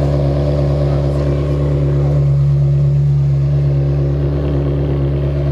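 Ferrari 360 Modena's 3.6-litre V8, breathing through an aftermarket exhaust, idling steadily with a deep, even note.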